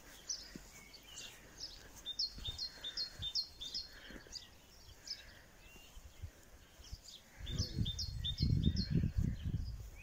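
A small songbird singing: two quick runs of about seven high, downward-slurred notes, about two seconds in and again near the end. A louder low rumble starts about seven and a half seconds in.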